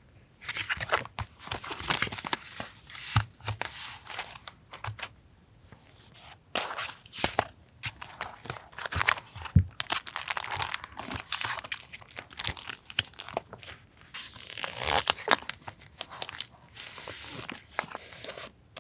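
Paper and washi-tape cuts being torn, peeled and handled for a collage journal: an irregular run of crisp tearing, crinkling and rustling with a short lull about five seconds in.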